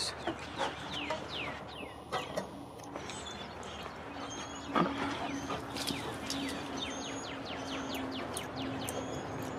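Birds singing outdoors: runs of quick, falling chirps, one near the start and a longer, faster run in the second half. A steady low hum sits underneath from about four seconds in, with a single knock about five seconds in.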